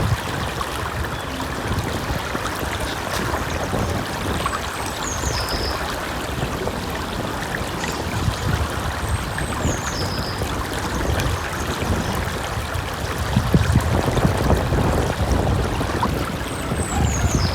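Steady rushing and burbling of a stream's flowing water. A small songbird sings a short high phrase that falls in pitch, three times a few seconds apart.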